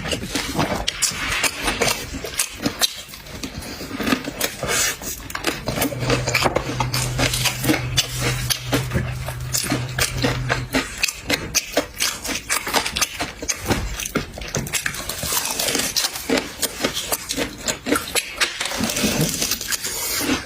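Close-up eating sounds of seafood: rapid wet smacking, sucking, chewing and clicks. A low steady hum runs for about five seconds in the middle.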